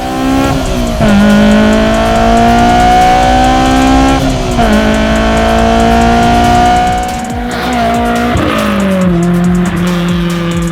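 Honda S2000's four-cylinder engine pulling hard through the gears. Its pitch climbs, drops at an upshift about four and a half seconds in, climbs again, and drops once more near nine seconds to a lower, steadier note. Background music plays under it.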